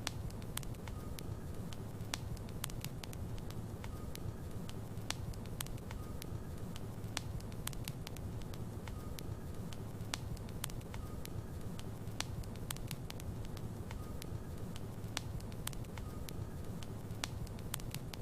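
Logs burning in a fireplace: a steady low rumble of flames with frequent, irregular sharp crackles and pops.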